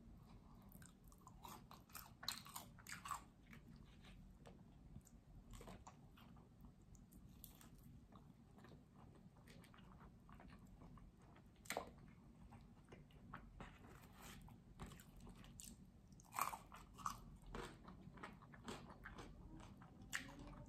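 A person chewing and biting into tacos and fries close to the microphone: quiet, wet mouth sounds with a few sharp crunches, at about two, twelve and sixteen seconds in.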